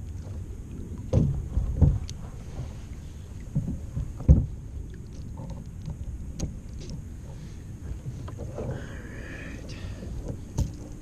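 Knocks and thumps against a plastic fishing kayak's hull, four sharp ones in the first half with the loudest about four seconds in, over a steady low rumble of the boat being moved and handled.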